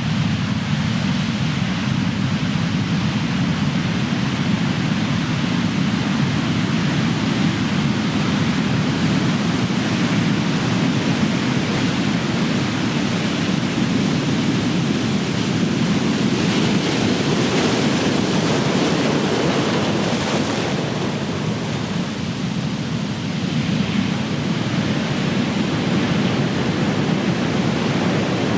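Big ocean waves crashing, a continuous rush of surf with a louder, hissier wave breaking around two-thirds of the way through.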